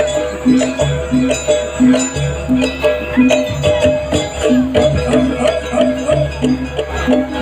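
Traditional Indonesian gamelan-style music accompanying a barong dance. A low pitched beat repeats a little under twice a second under steady higher tones and dense, jangling metal percussion strikes.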